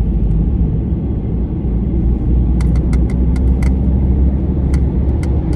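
Car driving at road speed heard from inside the cabin: a steady low road and engine rumble. In the middle comes a run of short, sharp clicks.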